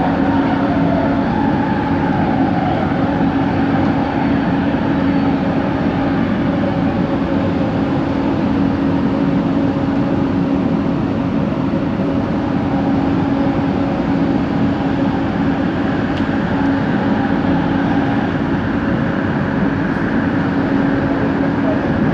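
Light rail train car in motion, heard from inside: steady running noise with a constant-pitched hum over it, the odd motor noise that the rider traces to this train set's fourth coach.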